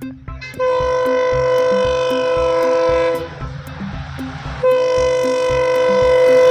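Train horn sounding two long, steady, chord-like blasts, the second starting about a second and a half after the first ends. A low, even thumping of about two beats a second runs underneath.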